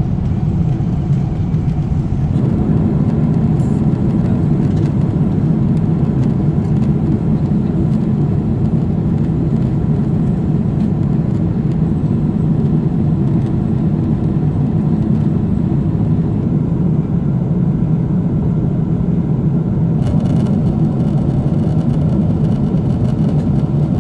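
Steady cabin noise of a Boeing 777-300ER in cruise: the even, low-heavy rush of airflow and GE90 engine drone, unchanging throughout.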